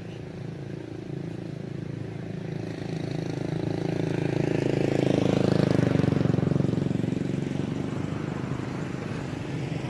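A motor vehicle passing by: a steady engine hum that grows louder, peaks about halfway through, then fades away.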